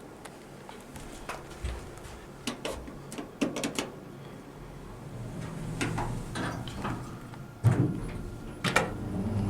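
Otis Gen2 lift car and its sliding doors: a run of sharp clicks and knocks, then a steady hum that builds, and two heavy thuds near the end as the doors move.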